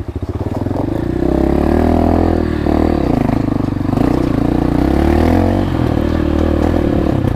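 Motorcycle engine running under a little throttle, its note dipping and picking up again a couple of times as the bike is moved slowly into a parking spot.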